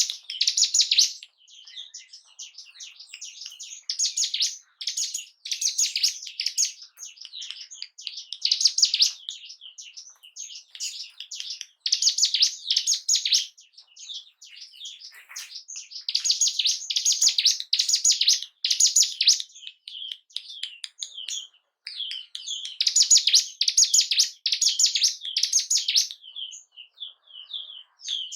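Ciblek gunung (a mountain prinia) singing: loud phrases of fast, high chirping notes, each a second or two long, repeated over and over with softer twittering between them. It is lure song meant to provoke a kept bird's breeding and territorial response.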